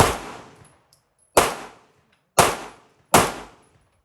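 Four pistol shots fired at an unhurried pace, about a second apart, each a sharp crack that dies away within about half a second.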